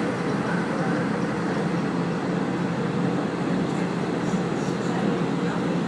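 Passenger train running on the Tohoku Main Line, heard from inside the car: a steady running rumble with no clear changes.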